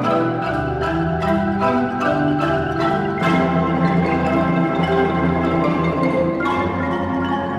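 A marimba orchestra of about a hundred players performing together: sharp unison mallet strikes over ringing held notes, with deep bass notes coming in about half a second in.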